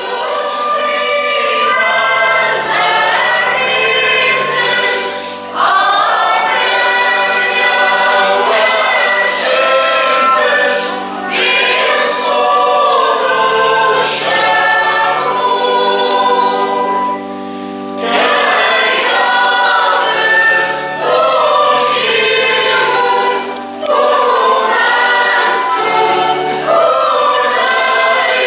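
Choir singing a hymn in long phrases with short breaks between them, over steady held low notes.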